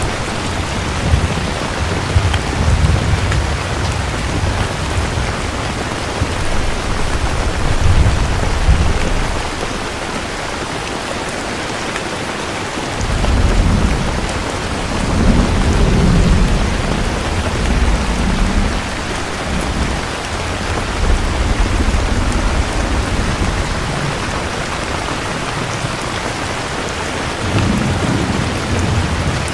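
Steady heavy rain with rolling thunder: low rumbles early on, a long rumble swelling about halfway through, and another shorter one near the end.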